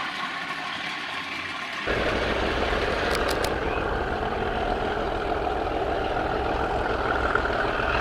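Engine sound of model Class 37 diesel locomotives running, growing louder with a deeper rumble about two seconds in. A few quick clicks follow about a second later.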